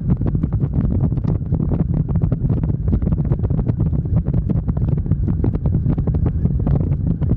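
Wind buffeting the microphone on a moving motorcycle: a loud, continuous low rumble with rapid crackling flutter.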